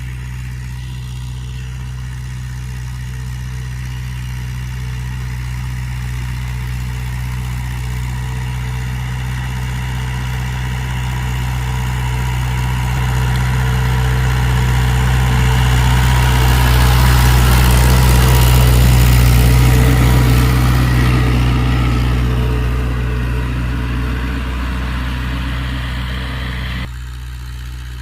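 Mahindra tractor's diesel engine running steadily. It grows louder over about fifteen seconds, with more noise on top at the peak, then eases off and drops abruptly near the end.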